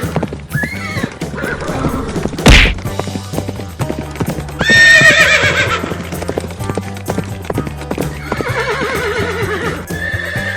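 Horse whinnying, a wavering call that falls in pitch, heard about three times over background music, with one sharp loud hit about two and a half seconds in.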